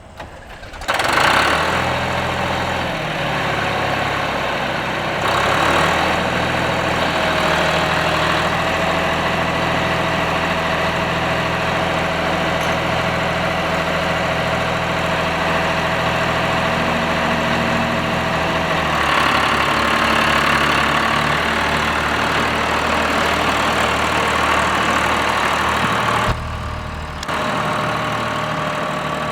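John Deere 1530 tractor's diesel engine running steadily. Its note changes about two-thirds of the way through and dips briefly near the end.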